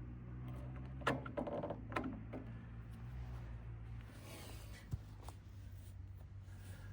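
Sawdust discharge chute being handled and dry-fitted onto the sawmill: a few light knocks about a second and two seconds in with a short rattle between them, over a low steady hum.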